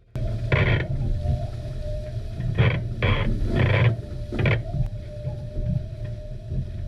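Strong wind buffeting the microphone on a catamaran sailing fast in heavy wind, with a steady humming tone. Five short bursts of rushing water or spray come in the first four and a half seconds.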